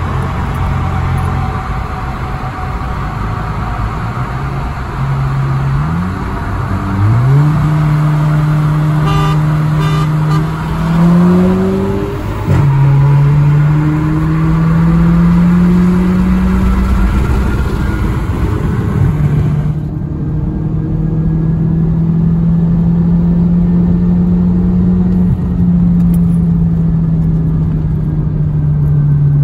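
A VW Golf GTI Mk7's turbocharged 2.0-litre four-cylinder, heard from inside the car, accelerating hard in a rolling race. The engine note climbs steadily and drops sharply at upshifts about twelve and twenty seconds in, over loud wind and road rush that thins out at the second shift.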